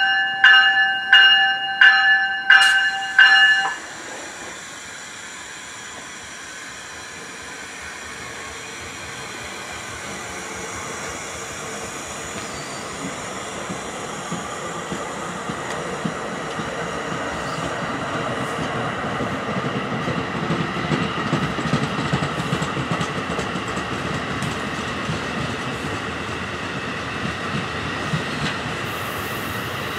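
A train bell rings about twice a second for the first three and a half seconds, then stops. Then an NJ Transit multilevel commuter train rolls past, its wheel and rail noise growing steadily louder with a fine ticking over the rail joints.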